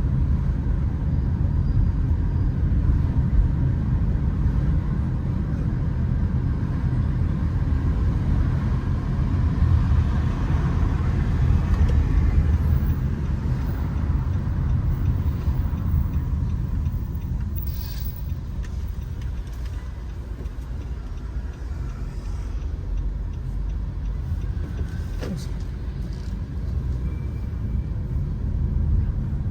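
Steady low rumble of city road traffic, swelling slightly as vehicles pass.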